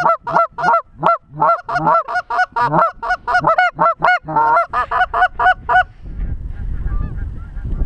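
Rapid, loud goose honks and clucks, about four a second, stopping about six seconds in; after that only wind rumbling on the microphone.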